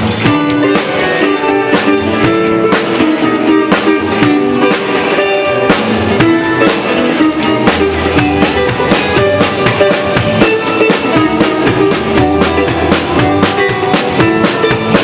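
Band music with a drum kit and guitar, the drums keeping a steady beat.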